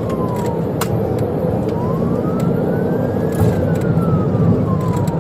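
Police patrol car siren in a slow wail, rising over about two seconds and falling again, over heavy road and engine noise from a high-speed pursuit. A couple of sharp clicks cut in.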